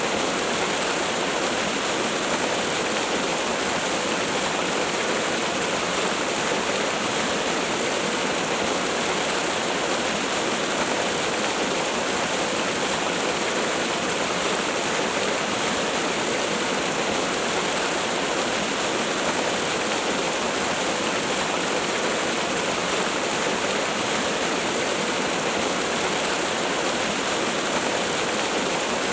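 Waterfall: falling water splashing steadily in an even, unbroken rush.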